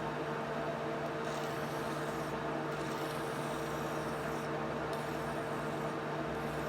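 An electric motor running steadily with a constant hum, with faint on-and-off rubbing in the higher range.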